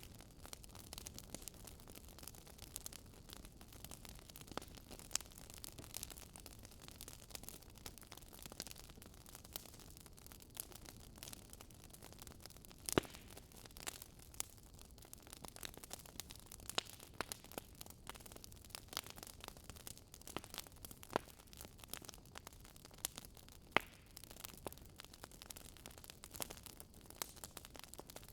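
Wood fire crackling in a fireplace: a soft steady hiss with irregular snaps and pops, a few sharper ones standing out.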